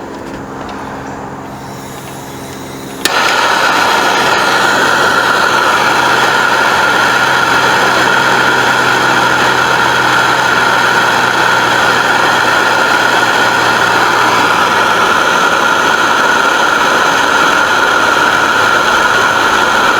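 A handheld gas torch lights with a sharp click about three seconds in, then burns with a loud, steady hiss while heating a rust-seized spark plug to loosen it.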